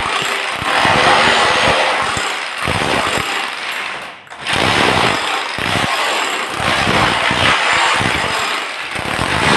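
Power tool running loudly, working noisily with uneven strokes; it stops briefly about four seconds in, then starts again.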